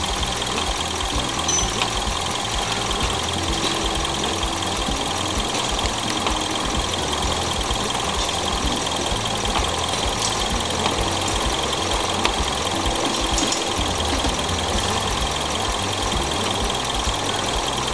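Toyota VVT-i petrol engine idling steadily under the open bonnet during a combustion-gas leak test on the cooling system.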